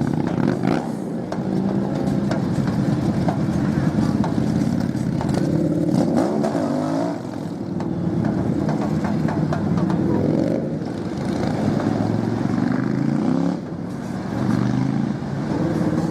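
Motorcycle engine running and being revved, its pitch rising and falling several times.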